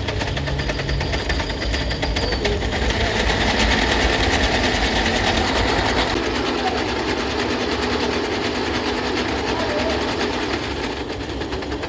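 Factory machinery running: a steady, dense mechanical rattle with fast clicking.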